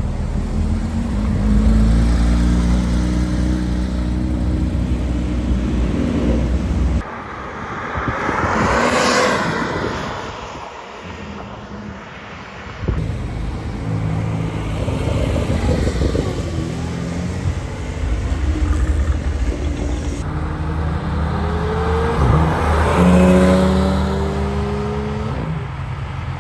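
Porsche sports car engines heard in several short clips. One engine runs with a steady low note, a car passes close about nine seconds in, and near the end an engine accelerates with rising pitch.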